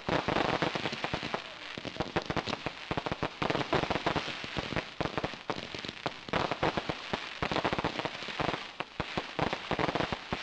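Fireworks going off in dense, rapid crackling and popping, with a sharp bang right at the start.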